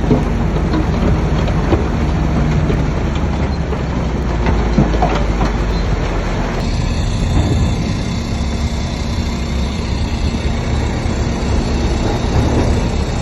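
Heavy diesel earthmoving machinery running steadily under load, with scattered metallic knocks; the sound changes abruptly about halfway through.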